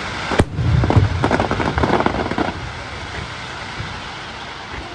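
Fireworks going off: one sharp bang about half a second in, then a dense run of crackling pops for about two seconds, fading to a low rumble.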